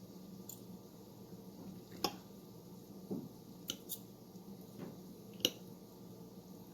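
Metal forks shredding cooked chicken thighs, their tines clicking sharply against the dish about six times at uneven intervals, the loudest about two seconds in and another near the end, over a faint steady hum.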